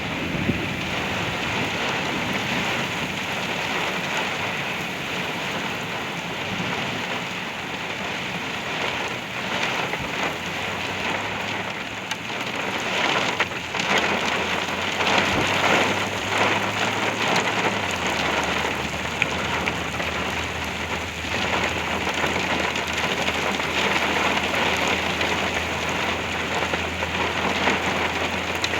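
Very heavy rain drumming on a truck, heard from inside the cab like going through a car wash, growing louder for a few seconds about halfway through. A faint low steady hum runs underneath.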